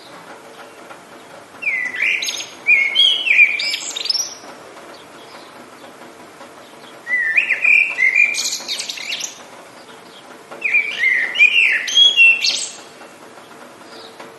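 A songbird singing three phrases of about two seconds each, made of quick rising and falling whistled notes, over a steady hiss of rain.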